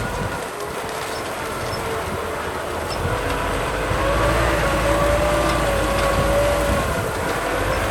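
Kubota M6040 SU tractor's four-cylinder diesel engine running under load while plowing mud. It gets louder about three to four seconds in, and its whine wavers in pitch.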